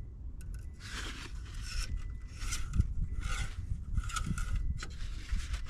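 Engine oil dipstick being handled and slid back into its tube, making a series of about six short scraping and rubbing sounds.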